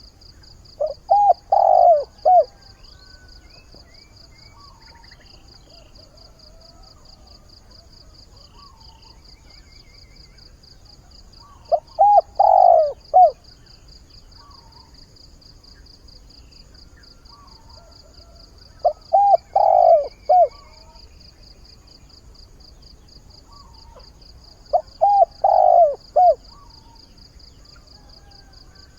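Decoy spotted dove cooing: four phrases of several notes each, several seconds apart. This is its territorial and mate-seeking call, used to lure wild doves.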